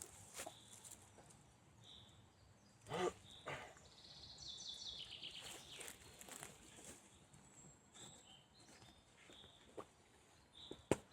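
Forest songbirds calling: short whistled notes and a quick descending trill, with a few footsteps on the forest floor.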